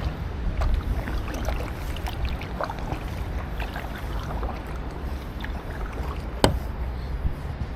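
Kayak paddling: small splashes and drips of water from the paddle blades over a steady low rumble of wind on the microphone, with one sharp knock about six and a half seconds in.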